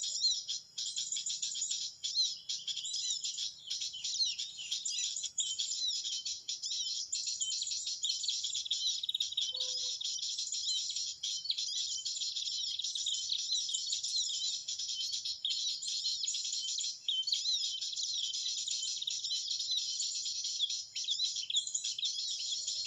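Small songbirds chirping and twittering in a dense, unbroken high-pitched chatter at a steady level.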